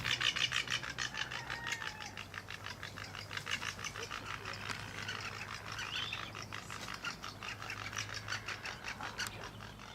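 Wildlife ambience: a fast, steady pulsing chorus of several pulses a second, with a few short bird calls over it and a faint low hum beneath.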